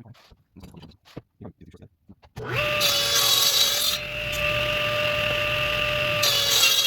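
A few light knocks, then a power tool spins up about two and a half seconds in and runs with a steady whine, cutting through the maple and epoxy tray in two loud passes, one near the start of the run and one near the end.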